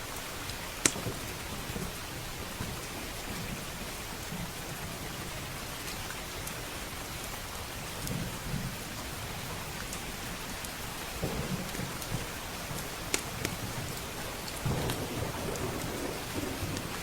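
Steady heavy rain with low rolling thunder that swells several times and is strongest near the end. A few sharp pops from a crackling wood fire, the loudest about a second in.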